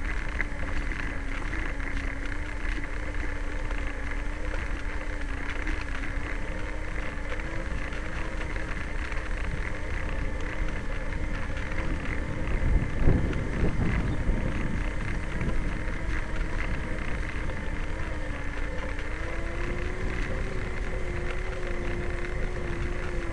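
Vehicle engine running at a steady pitch while riding, with wind rush on the microphone. There is a louder rumble about 13 seconds in, and the engine note rises slightly near the end.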